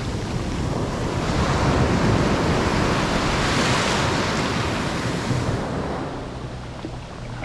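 Rough ocean surf breaking on a sandy beach: a wave swells to its loudest a few seconds in, then washes out and fades. Wind buffets the microphone throughout.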